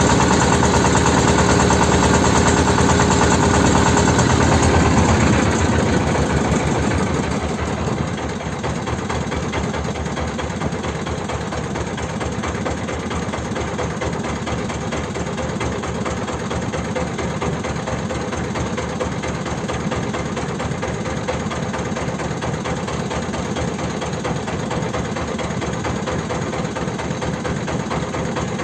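Engine of a small wooden motorboat (pompong) running. It slows down between about five and eight seconds in, then runs steadily at a lower speed with a rapid, even beat.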